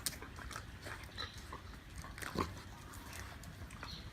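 Siberian husky making quiet mouth noises at a snack: scattered soft clicks and smacks, with one brief louder sound about two and a half seconds in.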